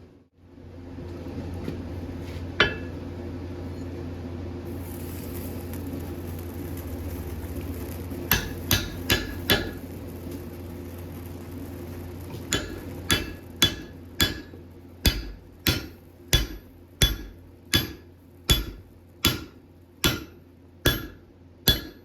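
Blacksmith's hammer striking a bar of alloy steel on an anvil, each blow with a short metallic ring. There is one blow, then a quick run of four, then a steady series of about one and a half blows a second, over a steady hum.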